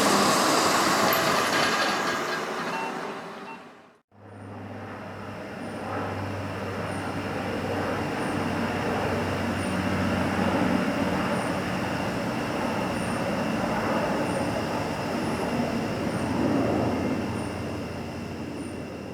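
Engine noise of a passing military aircraft fading away, cut off suddenly about four seconds in. After the cut, a steady rumble with a low hum and a faint high whine.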